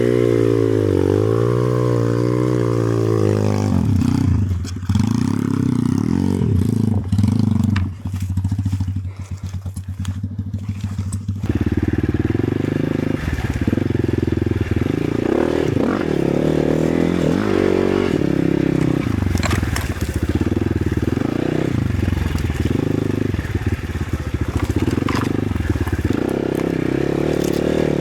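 Enduro motorcycle engine revving hard under full throttle, its pitch swinging up and down. It drops to a low, even putter about eight seconds in, then revs again unevenly from about eleven seconds, with scraping and crackling mixed in.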